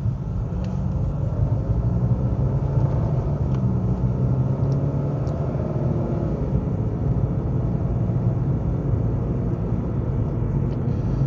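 Steady low engine and road rumble of a car being driven.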